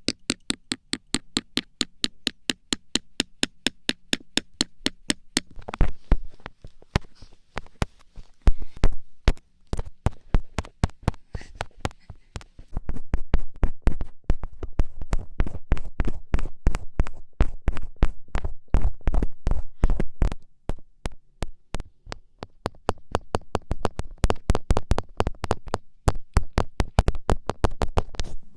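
Fingertips poking and tapping in quick succession. First a fast, even run of about five crisp taps a second for some five seconds, then irregular taps with deeper thuds, growing denser and louder about halfway through.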